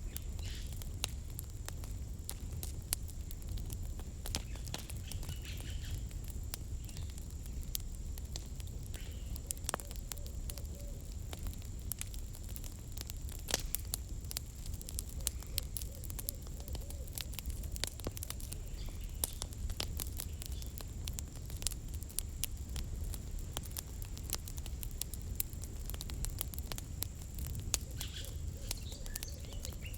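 Campfire firewood crackling, with frequent sharp snaps and pops of varying strength over a low steady rumble of the burning fire. A faint thin high whine sounds steadily alongside.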